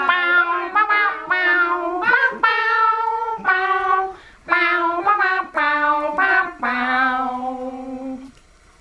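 A solo voice singing a short tune in separate held notes with vibrato, stopping about eight seconds in.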